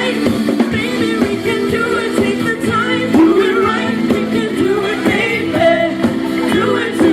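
Live band playing a rock-style song, with drums striking under sustained chords and a shifting melody line.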